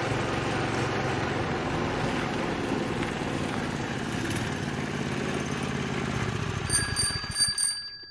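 A small vehicle's motor running steadily, then stopping about seven seconds in. A few short high-pitched tones follow right at the end.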